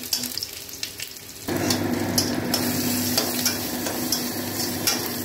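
Sliced onions, panch phoron and dried red chillies sizzling in hot oil in a steel kadai, with a steel spatula scraping and clicking against the pan as they are stirred. About a second and a half in, the sizzle grows suddenly louder and a steady low hum joins it.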